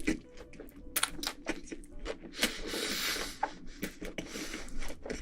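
Close-miked chewing of pizza: a run of wet mouth clicks and smacks, with a rustling hiss about two and a half seconds in and again near the end.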